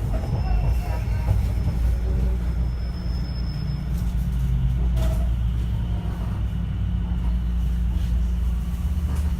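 Inside an Echizen Railway MC7000 electric railcar running along the track: a steady low rumble from wheels and track, with a faint high steady tone over the first few seconds and a couple of sharp clicks about halfway through.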